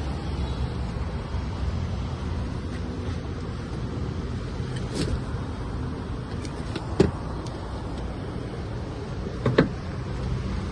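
A car running steadily with a low rumble, with a few sharp clicks and knocks: one about halfway, a louder one a little later, and a double knock near the end.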